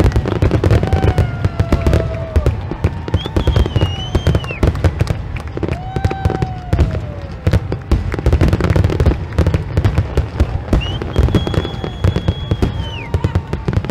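Aerial fireworks in a rapid barrage: dense, overlapping booms and crackles over a continuous low rumble, with drawn-out whistling tones rising and falling above them.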